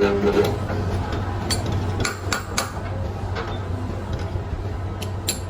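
Scattered sharp metal knocks and clinks, about eight in all, over the steady low hum of a running workshop machine.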